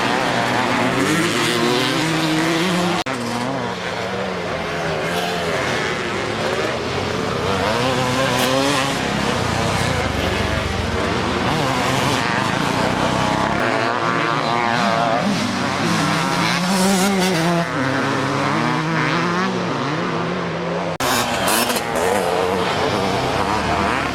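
Vintage Evo-class motocross bikes racing, engines revving up and down as riders work the throttle around the track. The sound changes abruptly twice, about three seconds in and near the end.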